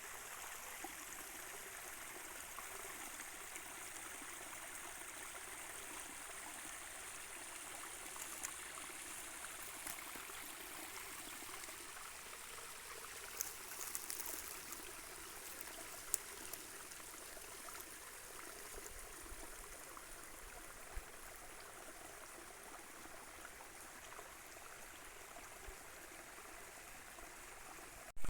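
Steady rushing of a small stream, with a few brief clicks in the middle.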